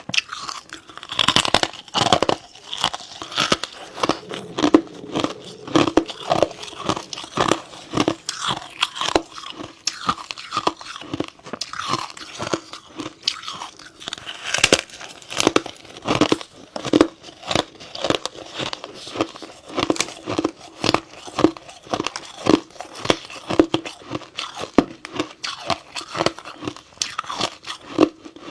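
Freezer frost being bitten and chewed close to the microphone: a steady run of crisp crackling crunches, with louder bite crunches every second or so.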